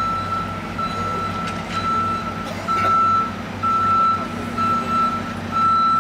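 A vehicle's reversing alarm beeping on one high tone about once a second, over the low rumble of its running engine.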